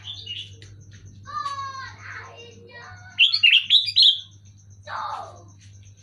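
Sooty-headed bulbuls calling in quick, bubbly chirping phrases, the loudest burst about three seconds in, over a low steady hum.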